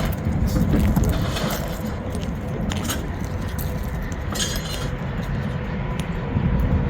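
Motorcycle riding at road speed: a steady rumble of engine and wind noise, with light clicking rattles scattered through it.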